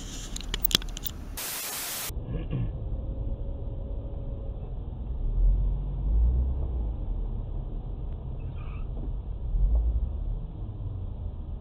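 Low vehicle rumble as picked up by a dashcam inside a car, swelling a few times. Before it there is a sharp click about a second in and a brief burst of hiss near two seconds, where the recording cuts to a new clip.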